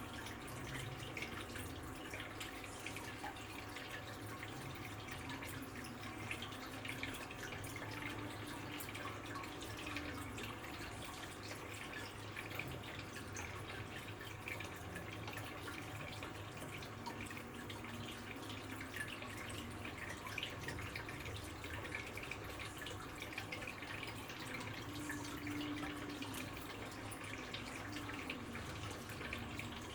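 Water trickling and dripping steadily, with many small drips and splashes.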